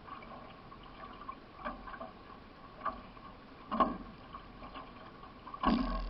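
Solo racing canoe's paddle strokes, heard from on board: the blade splashing into the water about once a second, the last stroke near the end the loudest, over a steady wash of water.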